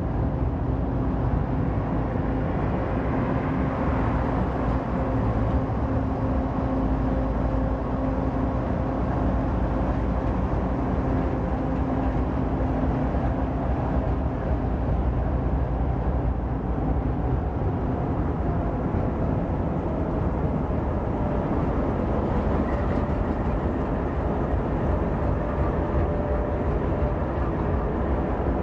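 Freight train rolling past with a steady rumble of wheels on rail and a few steady drones from the train.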